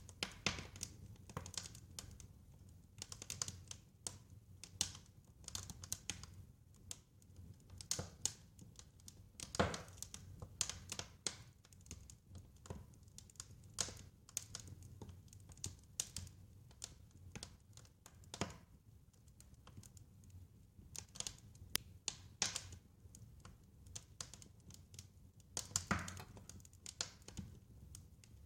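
Wood fire crackling: irregular sharp snaps and pops, a few louder ones, over a low steady rumble of the flames.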